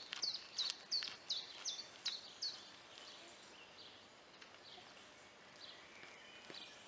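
A songbird singing a quick series of about seven high, downward-sliding notes, roughly three a second, which stops about two and a half seconds in. After that only a few fainter calls are heard over quiet outdoor background.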